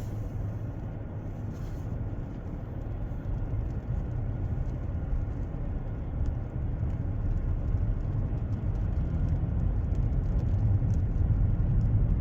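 A car being driven, heard from inside the cabin: a steady low rumble of engine and road noise that grows a little louder toward the end.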